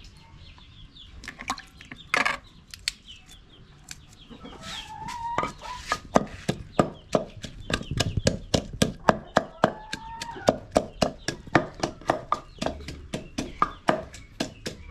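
Wooden pestle pounding in a large wooden mortar: sparse knocks at first, then a steady run of regular strikes from about four seconds in. Chickens cluck in the background.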